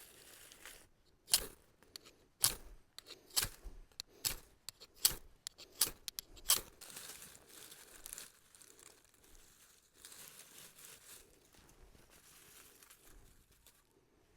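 Kindling and a fire-starter block being handled to lay a campfire: a run of sharp snaps about a second apart over the first seven seconds, then quieter rustling and crinkling.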